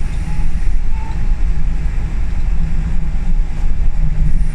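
Scania L94UB bus heard from inside the saloon: a steady, loud low engine and running rumble with a pulsing drone, as the bus is driven along.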